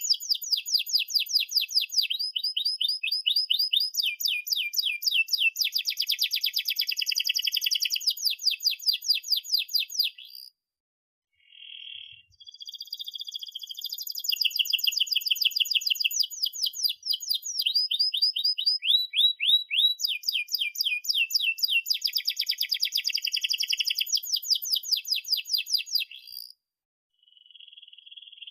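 Domestic canary singing a long rolling song: fast trilled runs of repeated notes that switch to a new note type every second or two. The song breaks off briefly about ten seconds in and again near the end.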